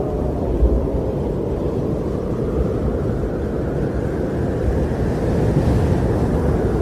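Winter wind blowing in a steady low rush, swelling in a gust about five seconds in.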